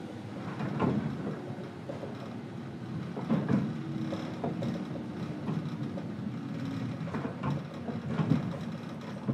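Running noise inside a JR 103 series electric train's motor car, MoHa 102-1518: a steady rumble from the wheels and bogies with a faint steady hum. Irregular knocks from the wheels run through it, several of them a few seconds apart.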